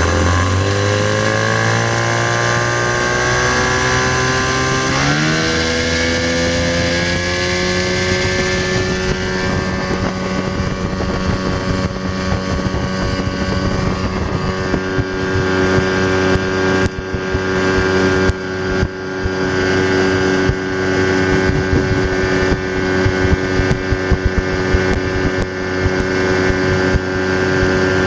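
Motorboat engine with a rebuilt carburetor being tested: it revs up twice in the first several seconds, then holds a steady high speed under way, with a rush of wind and water.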